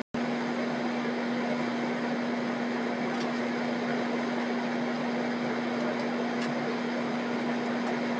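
A steady mechanical hum with a constant low tone over an even rushing noise, unchanging throughout apart from cutting in just after the start.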